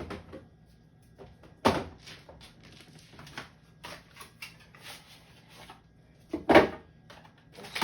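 Food containers and fridge parts being handled while a refrigerator is cleared out: scattered light clicks and knocks, with two louder clunks, one about two seconds in and one past six seconds.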